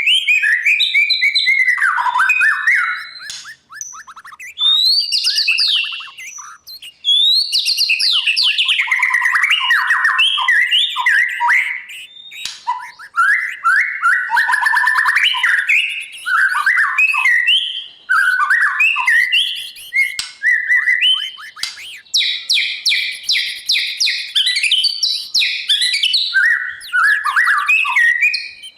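White-rumped shama singing a long, loud string of varied whistled phrases that leap up and down in pitch, with rapid trills and short pauses between bursts.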